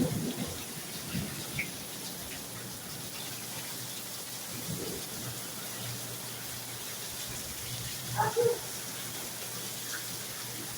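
Heavy rain falling steadily in a thunderstorm, with wind gusts buffeting the microphone in the first second or so. About eight seconds in there is a short pitched sound.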